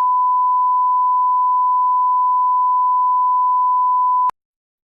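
A steady single-pitch reference tone, one unbroken beep of the kind laid at the head of a tape, cutting off suddenly a little over four seconds in.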